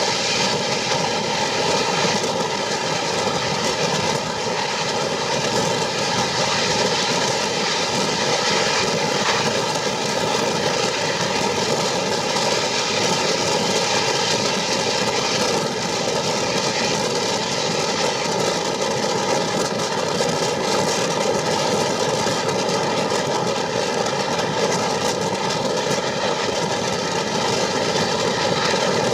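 A train running at speed, heard from on board. It makes a steady, unbroken rumble and hiss with a faint steady hum, and there are no separate exhaust beats or whistle.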